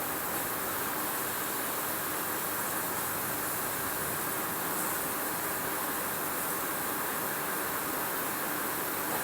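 Steady rain, an even hiss with no separate drops or strokes standing out.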